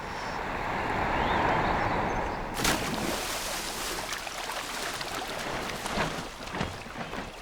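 An osprey plunging at fish in a fast-running stream: a rushing noise swells over the first two and a half seconds, then a sudden splash, followed by sloshing, splashing water.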